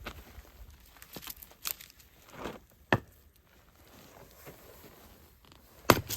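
Firewood being handled: a few separate sharp wooden knocks with rustling and scraping between, the loudest knock just before the end.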